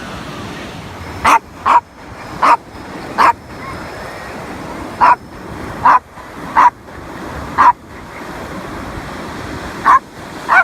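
A dog barking, about ten short, sharp barks in uneven clusters of two or three, over a steady rushing background.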